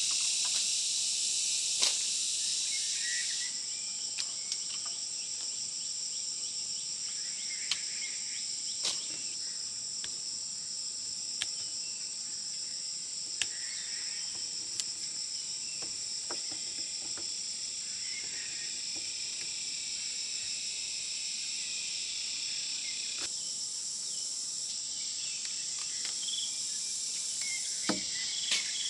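Steady high-pitched insect chorus, fuller for the first few seconds and again from about two-thirds of the way through, with scattered sharp clicks and snaps.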